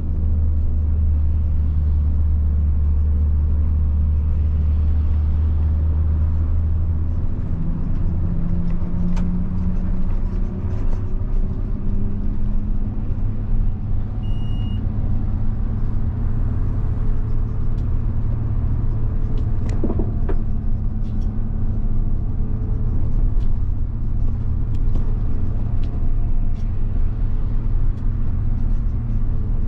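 1990 Mitsubishi Fuso bus's 7.5-litre diesel engine running while the bus is under way, a steady low drone. About seven seconds in the engine note changes and then climbs over the next few seconds, with light rattles throughout and a short beep about halfway.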